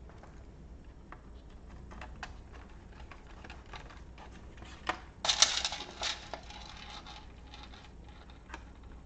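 Small plastic and metal clicks and rattles of laptop parts being handled and fitted, with a burst of louder clattering about five seconds in.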